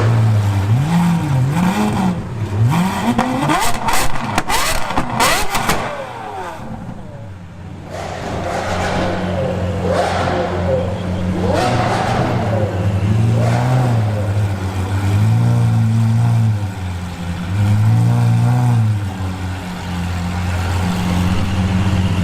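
Exotic sports car engine idling and being revved in short blips, rising and falling in pitch, three times in a row in the second half. A cluster of sharp cracks comes about four to six seconds in.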